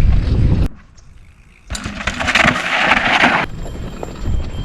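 Wind buffeting an action camera's microphone on a moving mountain bike, with a heavy rumble that drops away for about a second near the start. A loud hiss of tyres on the dirt trail then follows for about two seconds before the rumble returns.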